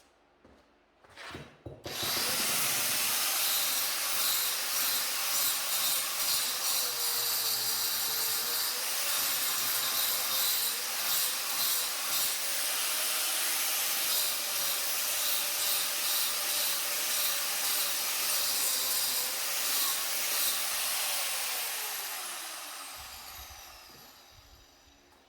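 Electric power tool running under load, its motor pitch wavering, then winding down with a falling whine near the end after it is switched off.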